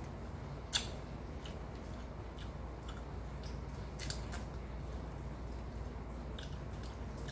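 Close-up eating sounds of a mouth biting and chewing meat off a grilled tuna jaw: scattered sharp clicks and smacks, the loudest about four seconds in. A steady low hum runs underneath.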